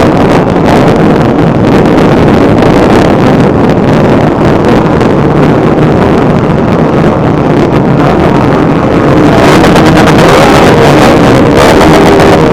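Motorcycle engines running, loud and steady, with heavy wind buffeting on the microphone.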